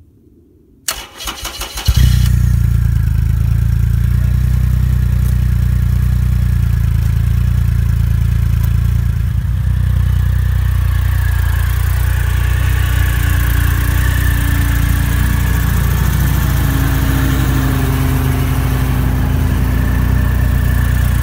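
Triumph Rocket III Roadster's 2.3-litre inline three-cylinder engine cranked by its starter about a second in, catching after about a second and settling into a steady idle. A cold start after months of sitting unused in the cold.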